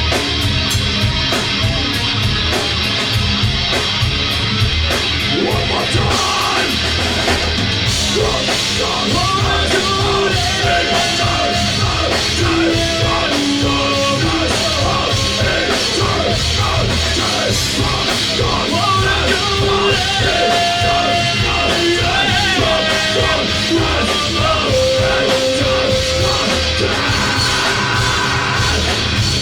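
Live rock band playing loudly, with vocals.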